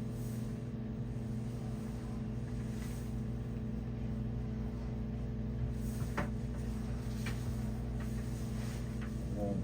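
A steady low mechanical hum, with a few faint light taps in the second half.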